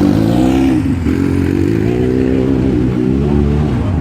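Scramble sidecar motorcycle engines revving, the pitch rising and falling several times as the throttle is opened and shut.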